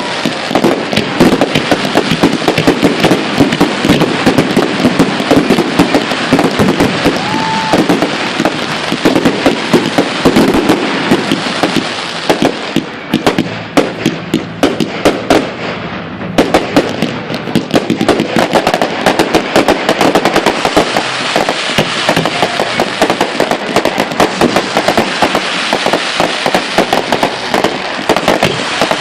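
Fireworks going off in a dense, continuous barrage of bangs and crackles, many a second, easing briefly about halfway through before building again.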